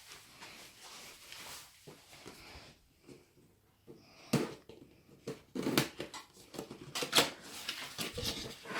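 Computer parts being handled and fitted during a PC build. After a quiet stretch, a series of short clicks and knocks begins about four seconds in.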